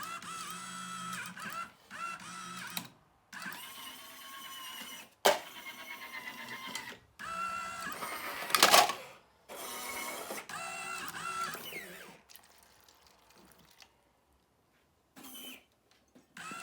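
A small electric motor whining in repeated short runs of one to three seconds, each starting with a slight rise in pitch. There is a sharp click about five seconds in and a louder noisy burst about eight and a half seconds in.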